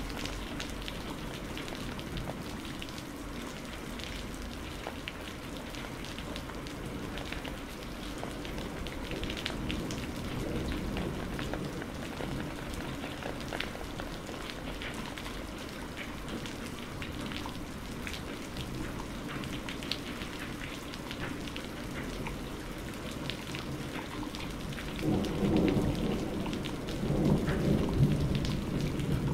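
Steady rain falling, with individual drops ticking sharply here and there, and a roll of thunder rumbling low near the end.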